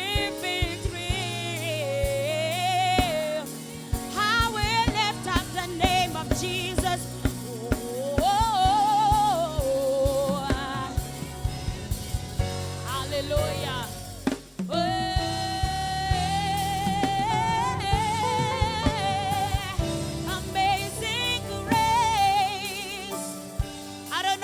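Live gospel worship music: a singer holding and bending long, wavering notes over a drum kit and band, with a brief drop-out about halfway through.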